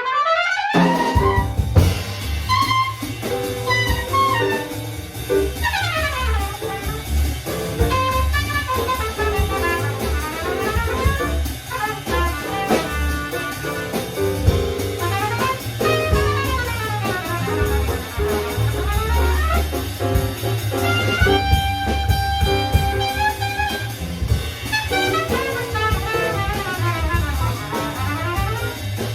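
Jazz quintet playing a swing tune: trumpet to the fore over bass, drum kit, piano and vibraphone.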